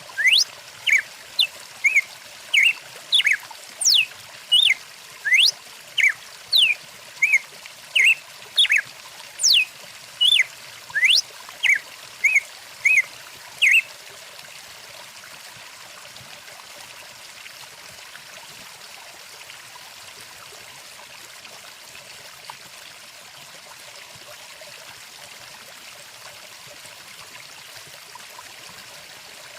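A stream running steadily, with birdsong over it for the first half: quick repeated short chirps and upward-sweeping whistles, about one and a half a second. The birdsong stops about halfway through, leaving only the flowing water.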